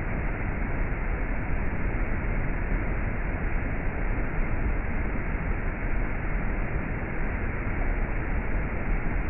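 Waterfall: a steady, unbroken rush of falling water, with a deep rumble underneath.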